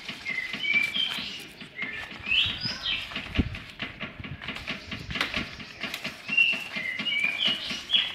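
Small birds chirping in short repeated notes, some rising, some falling, over a scatter of sharp knocks and clicks, with one heavier thump about three and a half seconds in.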